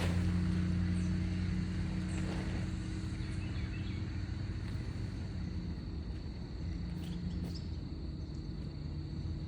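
A steady low engine drone that slowly eases off, with a few faint bird-like chirps in the first few seconds.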